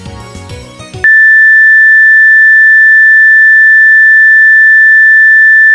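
A very loud, steady, high-pitched electronic sine-wave beep at one pitch. It switches on abruptly about a second in, holds for nearly five seconds and cuts off sharply. It is an edited-in ear-splitting tone.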